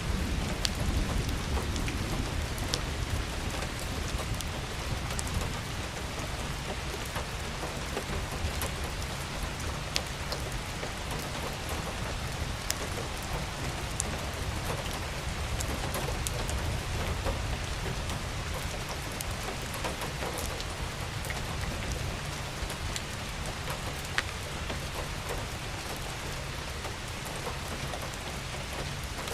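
Steady rain falling on surfaces, a continuous hiss with many sharp individual drop ticks. A low rumble runs underneath.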